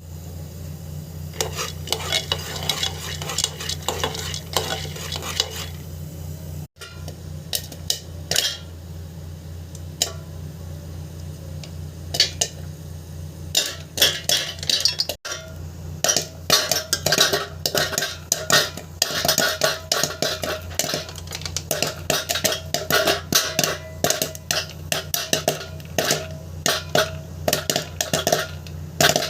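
Popcorn kernels popping as they heat: scattered pops at first that come thick and fast from about halfway on, over a steady low hum.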